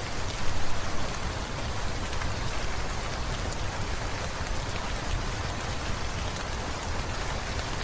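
Steady rain falling, an even hiss peppered with sharp drop ticks, swelling briefly louder about half a second in.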